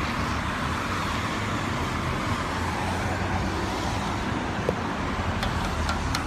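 Steady traffic passing on a wet, busy street: an even hiss of tyres on the wet road over a low engine rumble, with a few light ticks near the end.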